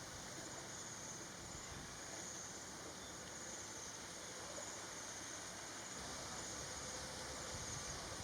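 Steady, high-pitched drone of insects with a faint background hiss; no bird call stands out.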